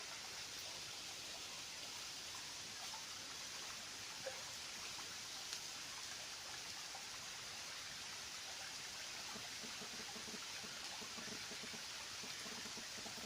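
Steady rushing of shallow river water, even and unbroken, with two faint clicks a few seconds in.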